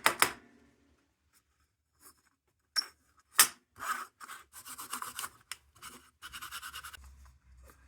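0000 steel wool rubbing over the tin crown of a lantern in short, scratchy strokes, after a pause with a couple of sharp clicks about three seconds in.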